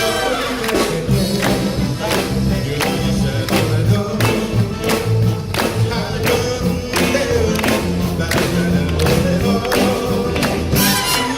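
A big band of brass and saxophones playing live with a rhythm section, the drums keeping a steady beat.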